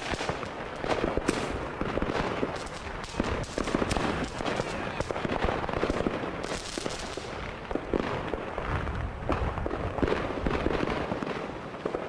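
Fireworks and firecrackers going off: a dense, continuous run of many overlapping bangs and crackles.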